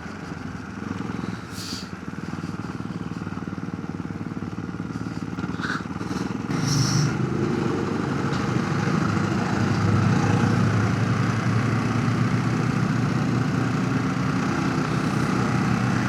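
Ducati motorcycle engine running at low speed, then growing louder about six and a half seconds in as the bike pulls away and runs on under way. A few short clicks come before and as it pulls away.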